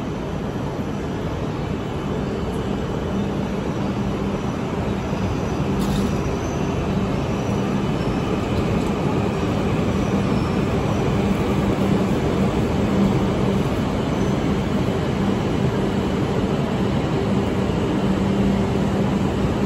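E5 series Shinkansen train pulling slowly along the platform as it arrives. The cars make a steady rushing sound with a low steady hum, growing a little louder over the first half.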